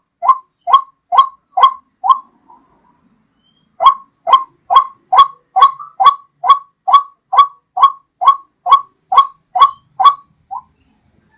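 White-breasted waterhen (ruak-ruak) calling: a loud run of short, identical call notes at about two a second, breaking off briefly about two seconds in before a long unbroken series.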